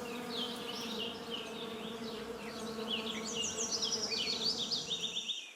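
Dragonfly wings buzzing in a steady low hum, with many quick high chirps and twitters above it. The sound cuts off suddenly near the end.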